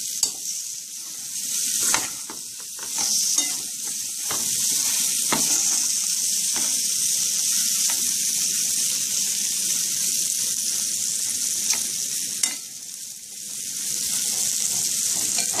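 Curry-seasoned prawns sizzling as they fry in oil in a pot, with a metal spoon stirring them and knocking against the pot now and then. The sizzle drops briefly near the end.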